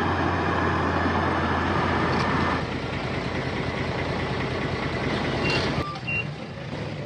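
Heavy diesel earthmoving machinery running loud, easing off about two and a half seconds in and again near six seconds, where a sharp click is heard. Two short high beeps sound near the end.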